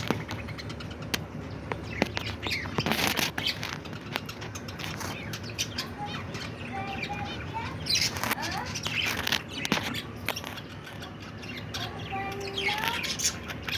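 Budgerigars chirping and chattering in many short high calls and pitch glides, with scattered clicks among them.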